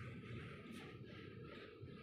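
Faint steady rumble of a moving train heard from inside the carriage as it crosses a steel truss bridge.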